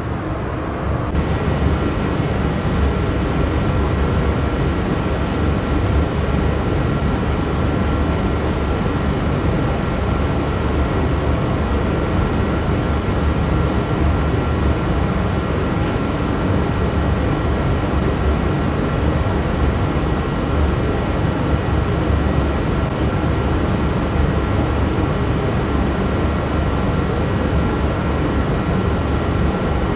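Steady jet cabin noise inside a Boeing 787-8 airliner: an even rush of air and engine sound with faint steady whines above it, unchanging throughout.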